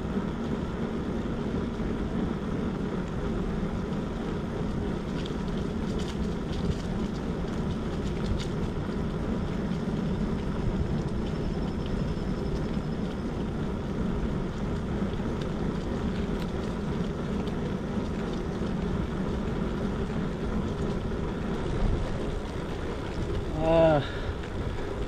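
Steady rush of wind on the microphone and tyre noise from a bicycle rolling along a paved road.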